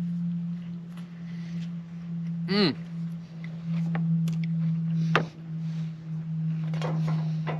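A steady low hum on one tone. About two and a half seconds in there is a brief squeak that falls sharply in pitch, and about five seconds in a sharp click.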